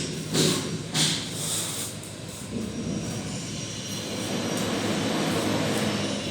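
Trowel strokes on wet plaster: a few short scraping swishes, about two a second. After about two seconds they give way to a steady rumble of machinery that slowly grows louder.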